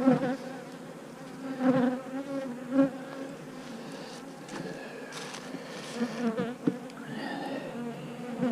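Honey bees buzzing around an open hive, a steady, wavering drone, with a few light knocks from handling partway through.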